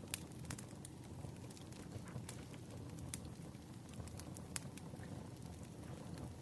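Wood fire burning: a steady low rumble with irregular crackles and pops from the burning logs.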